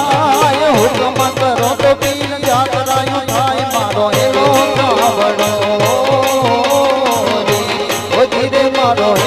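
Gujarati folk dance music for dandiya raas: a wavering Indian banjo melody over dhol and electronic pad drums keeping a quick, steady beat.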